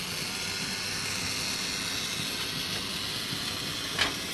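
N gauge Kato SD40 model diesel locomotive running on the layout under DCC control, its small motor and wheels giving a steady whir. A single click comes about four seconds in.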